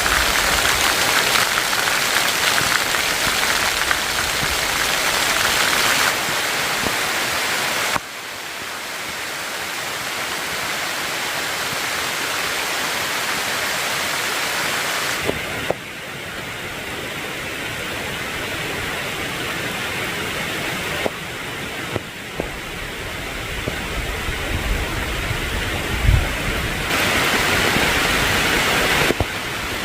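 Steady rushing noise of falling or running water, changing abruptly in loudness and brightness several times.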